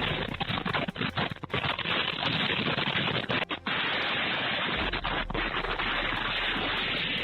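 Violent storm wind and rain blasting a warehouse, with a rapid, irregular clatter of wall panels banging and tearing loose. It comes through thin, low-quality security-camera audio.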